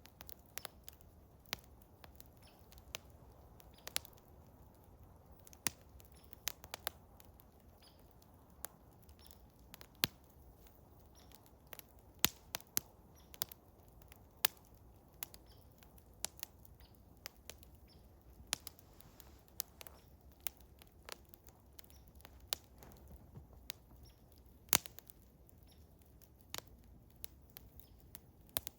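Eastern hemlock wood fire crackling, with irregular sharp pops and snaps a few times a second over a soft low rumble.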